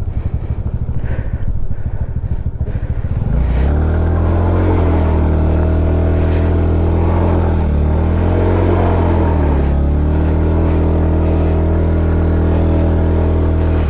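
Motorcycle engine running low for a few seconds, then revving up about three and a half seconds in and holding at steady high revs, with a brief drop and recovery in pitch around the middle.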